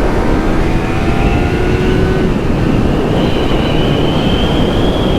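Yamaha MT-03's parallel-twin engine through its stock exhaust, pulling hard at high revs, its pitch climbing slowly, with heavy wind noise.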